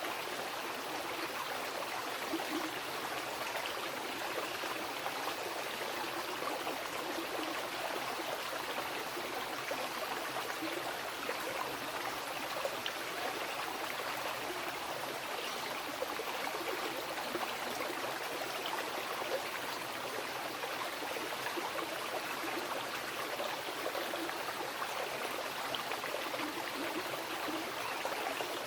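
Mountain river rushing steadily over rocks: a continuous, even wash of flowing water with fine splashing and burbling.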